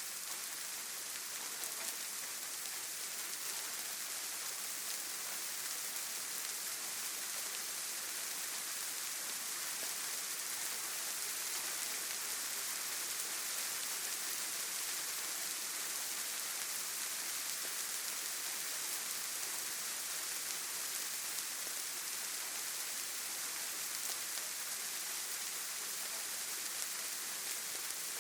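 Steady rainfall, a continuous even hiss of drops pattering on foliage and ground, with no pauses or changes.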